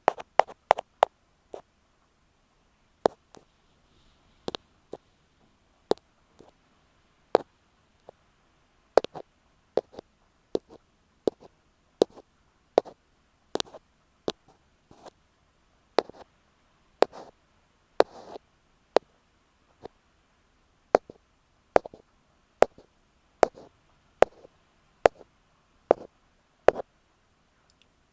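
Earpick tapping on an earphone microphone: sharp, irregular taps about once a second, some in quick little clusters, with a few softer scratching strokes in between.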